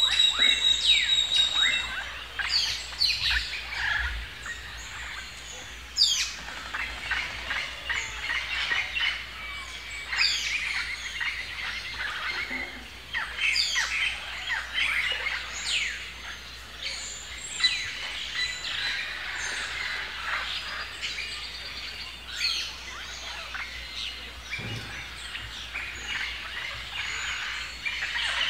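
Several birds chirping and calling, a dense run of quick overlapping notes, many of them sweeping downward in pitch.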